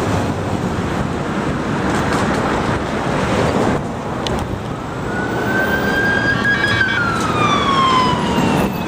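Street traffic noise, with an emergency vehicle's siren wailing through it: about halfway through it rises slowly, then falls slowly near the end.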